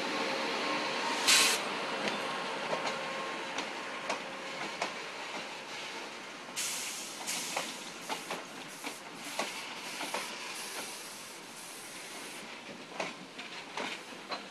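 Freight wagons rolling past on the adjacent track, their wheels clattering over the rail joints with irregular clicks and knocks over a steady rumble, and a louder knock about a second and a half in. A high hiss comes and goes from about six to twelve seconds in, and the sound slowly fades as the rake draws away.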